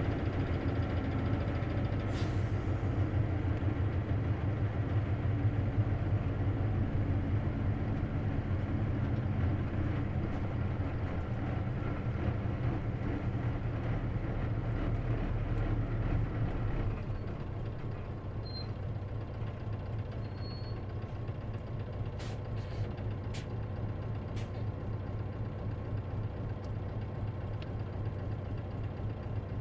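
Isuzu KC-LV380N city bus heard from on board, its diesel engine running under way, then dropping to a lower, quieter run about seventeen seconds in. A few sharp clicks sound a few seconds later.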